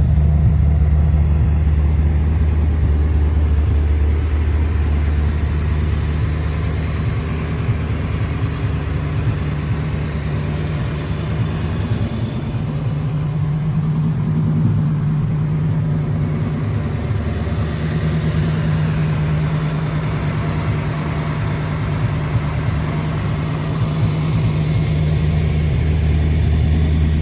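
1989 Chevrolet Corvette's 5.7-litre V8 idling steadily, still warming up after a cold start.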